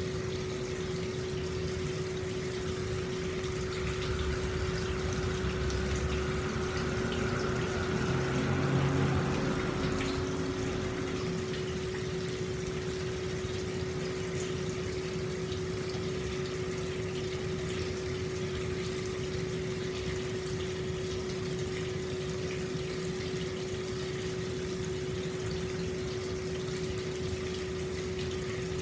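Hot spring water pouring steadily into an open-air bath, a continuous rushing splash with a steady low hum beneath it; the flow swells a little about four to ten seconds in.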